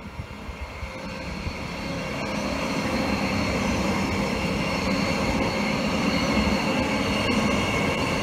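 Transperth B-series electric multiple-unit train approaching and passing beneath, wheels rumbling on the rails with steady whining tones above. It grows louder over the first three seconds, then holds steady as the cars run by underneath.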